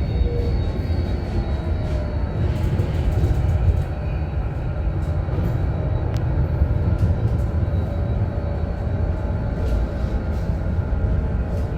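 Tram running on its rails: a steady low rumble with faint steady whining tones above it and a few light clicks.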